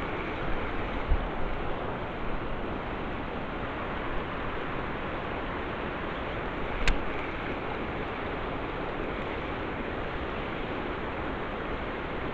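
Steady rushing of river water, with a single sharp click about seven seconds in.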